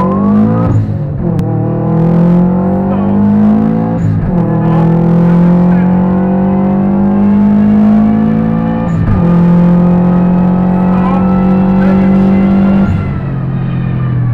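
Subaru Impreza rally car's flat-four engine heard from inside the cabin, accelerating hard through the gears. The pitch climbs and drops back with each upshift, about a second in, at about four seconds and at about nine seconds, then falls away as the driver lifts off near the end.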